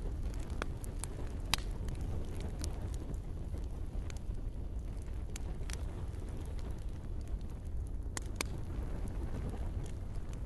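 Campfire crackling: scattered sharp pops and snaps of burning wood over a steady low rumble of the flames, with a close pair of louder pops about eight seconds in.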